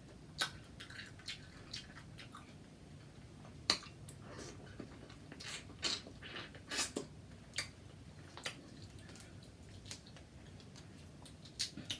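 Close-miked eating sounds: wet, irregular chewing and mouth clicks as seafood is eaten.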